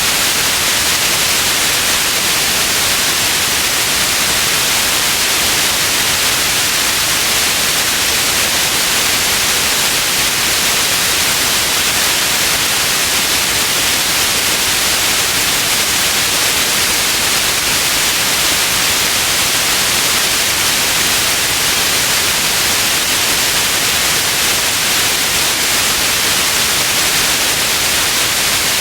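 Steady white noise: an even hiss that does not change, strongest in the upper range.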